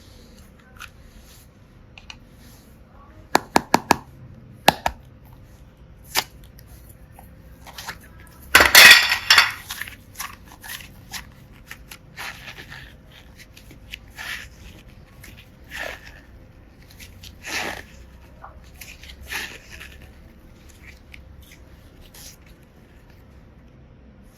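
Small plastic pieces (toy blocks, mini hearts and seashell charms) clicking and clattering against each other and a container as they are handled, with four quick clicks early, a louder rattling cluster about nine seconds in, and scattered softer clicks after.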